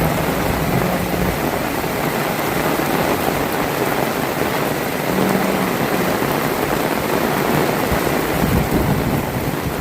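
Heavy rain falling steadily, a dense even hiss, with a low hum coming in briefly at the start and again about five seconds in.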